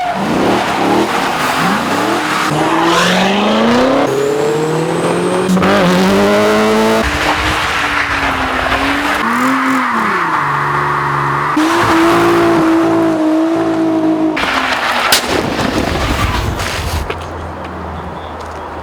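A run of short, hard-cut clips of car engines revving hard and accelerating, the engine notes climbing and dropping as the cars rev and shift, with tyre noise under them. Near the end a single sharp crack sounds, and the last couple of seconds are quieter.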